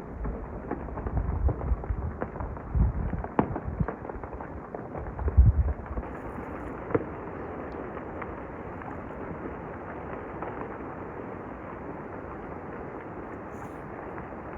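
Mountain avalanche heard from a distance: low rumbling booms and sharp cracks through the first six seconds, the loudest about five and a half seconds in, then a steady rushing rumble.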